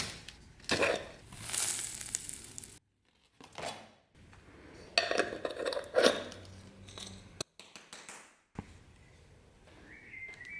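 Metal objects clinking, knocking and rattling as they are handled, in several short clips separated by abrupt cuts.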